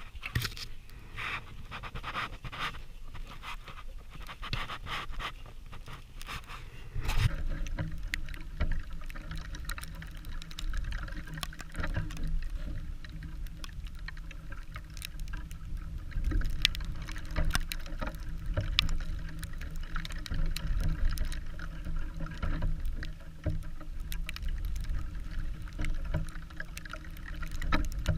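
Footsteps trudging through deep snow at a steady walking pace. About seven seconds in, a steady low wind rumble on the microphone joins them.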